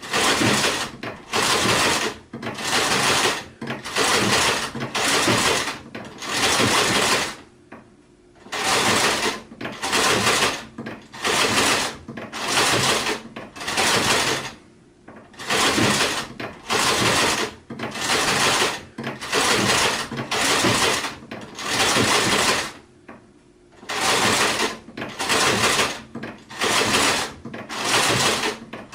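Sewing machine stitching in short runs of about a second each, stopping and starting again in quick succession, with a few slightly longer pauses.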